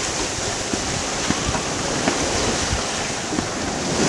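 Wind buffeting the microphone over the rush and splash of waves along a sailboat's hull, beating close-hauled into chop in about 18 to 20 knots of wind. A few short low thumps come through the steady noise.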